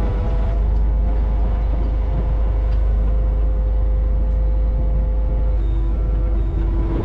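Kubota KX61-2A mini excavator's diesel engine running steadily with a heavy low rumble and a held whine above it. About five and a half seconds in, a second, lower whine joins.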